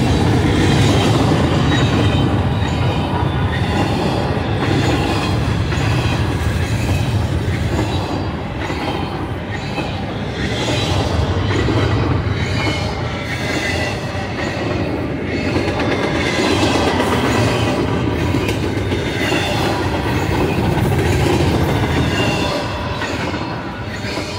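Loaded double-stack intermodal well cars of a freight train rolling past: a steady rumble and clatter of steel wheels on the rails, with a high, wavering squeal from the wheels. The sound fades a little near the end as the last cars go by.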